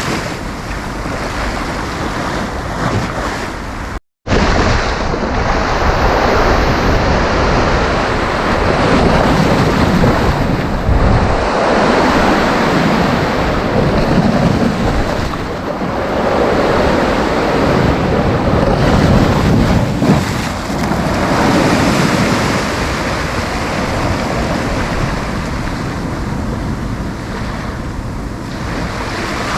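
Sea surf breaking and washing up the beach in slow, repeated swells, with wind buffeting the microphone. About four seconds in the sound cuts out completely for a split second.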